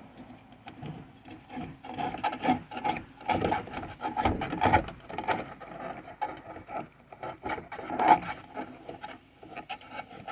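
VW Westfalia skylight being worked by hand, its hinged arms and slide rollers scraping and clicking along their slots in a series of irregular rasping strokes, with the loudest strokes about four and eight seconds in.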